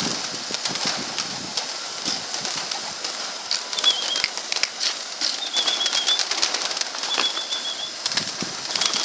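Pigeons in a loft: wings flapping and rustling in many short flutters, with short high trilling chirps from a bird four times.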